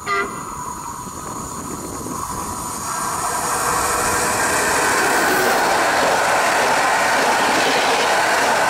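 Stadler FLIRT electric multiple unit (PKP Intercity ED160) approaching and passing close by at speed: a rush of wheels on rail that grows louder until it goes by, then stays steady. A short toot sounds at the very start.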